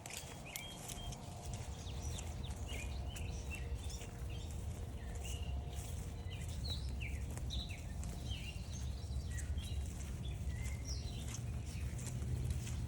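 Small birds calling in many short chirps, over footsteps on a trail and a steady low rumble that grows a little louder near the end.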